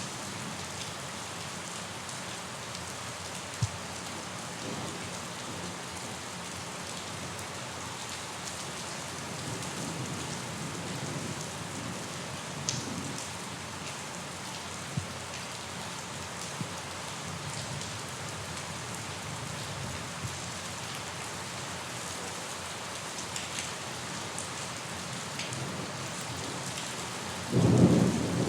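Steady rain falling on a surface, with the odd louder drop ticking through it. Near the end a loud clap of thunder breaks in and rumbles on.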